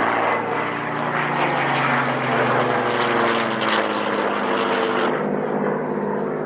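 Piston-engined propeller aircraft flying past, its engine note sliding lower in pitch as it goes by and the sound dulling about five seconds in.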